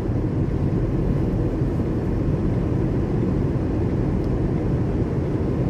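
Steady road and engine noise inside a moving car's cabin, a low even rumble with no sudden sounds.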